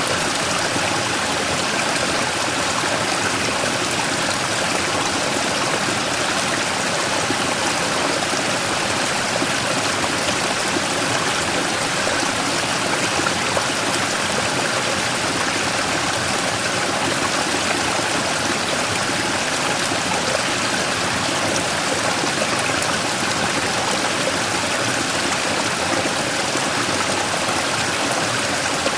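Mountain stream flowing over and around a large rock, a steady rushing and splashing of water with no change throughout.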